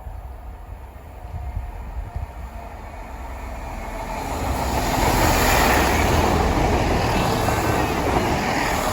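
A train approaching and passing close by, its wheels on the rails swelling from a low rumble to a loud, steady rush about halfway through.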